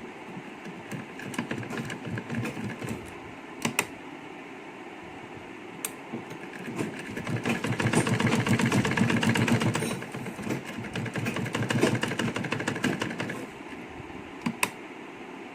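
Sewing machine stitching in short runs, going fastest and loudest from about seven to ten seconds in, with a few sharp clicks between the runs. It is sewing a cloth ear loop onto a fabric face mask.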